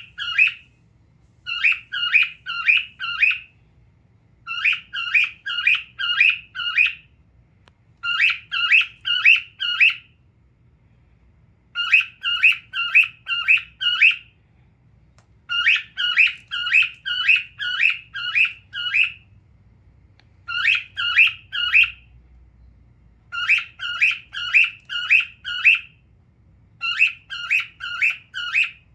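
A cockatiel repeatedly calling in quick bursts of four to six sharp chirps, with short pauses of about a second between the bursts.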